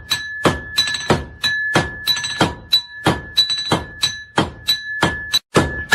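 Hand hammer striking hot iron on an anvil in a steady rhythm of about three blows a second, each blow leaving a high, clear ring from the anvil.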